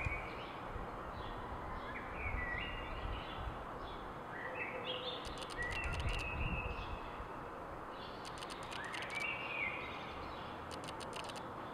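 Songbirds calling: three short phrases of notes stepping up in pitch and a few runs of rapid high ticks, over a steady low background rumble.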